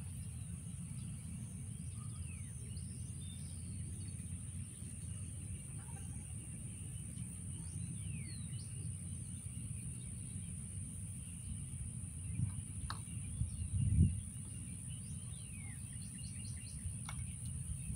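Birds chirping over a steady low rumble, with a steady high hiss. Two brief, louder low bumps come late on, the second the loudest sound.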